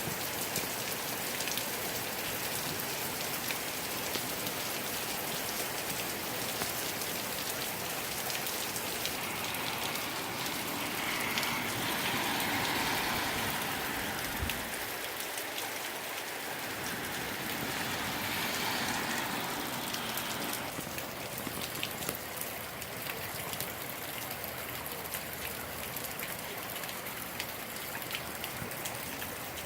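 Heavy rain pouring steadily, swelling louder twice around the middle.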